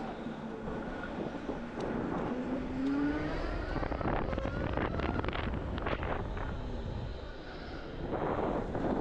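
Electric motorcycle on the move, its motor whine rising in pitch as it speeds up, over a steady rush of wind across the microphone.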